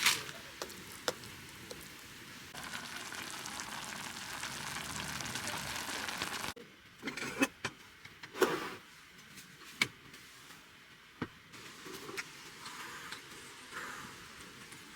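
Camp cooking: a steady hiss for a few seconds, then scattered clinks and knocks of cookware and utensils.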